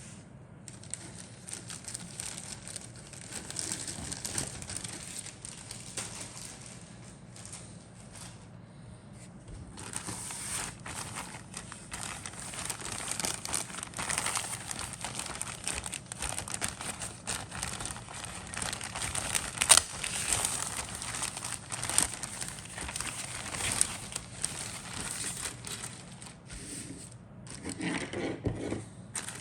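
Plastic bags and packaging of a plastic model kit being handled, crinkling and crackling on and off, with a lull part-way through and busier crinkling from about a third of the way in.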